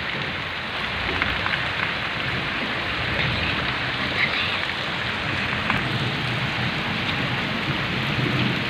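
Heavy rain pouring steadily onto a wet dirt lane and its puddles, a dense, even hiss.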